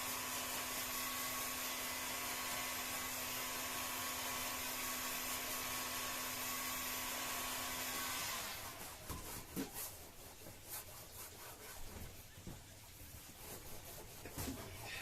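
Electric heat gun blowing with a steady whir and hum, switched off about eight seconds in; after it, light rubbing and scattered knocks of hand work on the boat.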